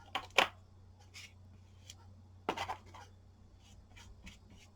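Paintbrush spreading acrylic medium over a paper tag in several short, scratchy strokes, the loudest about two and a half seconds in.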